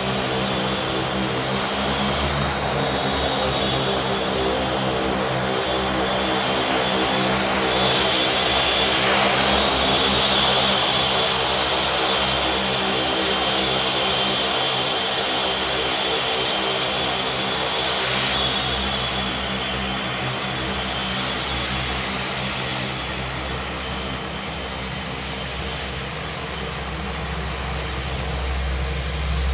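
OV-10 Bronco's twin Garrett T76 turboprop engines running on the ground while the aircraft taxis and parks: a steady propeller drone under a high turbine whine, swelling slightly about a third of the way in.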